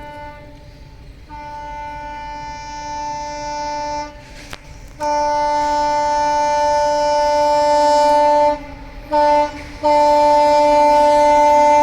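Indian Railways diesel locomotive's horn sounding in a series of blasts: a fainter long blast that grows louder, then a loud long blast, a short blast, and another long loud blast.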